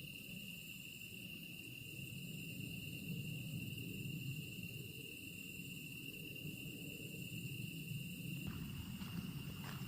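Grass insects chirring in one continuous high-pitched tone, over a low background rumble.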